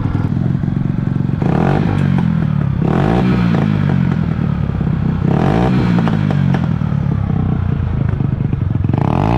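Honda Fan's single-cylinder four-stroke motorcycle engine idling, with four short blips of the throttle that rise and fall back to idle. Its carburetor idle screw has just been turned out two full turns because it would not hold idle.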